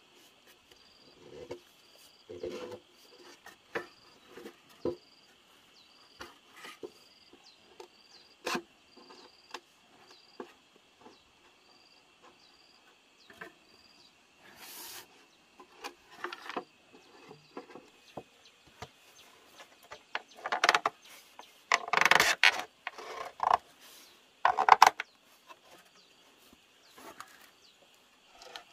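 Steady insect chorus with a regular high chirp repeating a little faster than once a second. Over it come scattered knocks, scrapes and rustles of handwork, heaviest and loudest about two-thirds of the way in.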